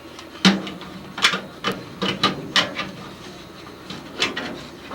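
A furnace's metal filter cover plate being fitted back into place: a series of sharp clanks and knocks, about seven, the loudest about half a second in.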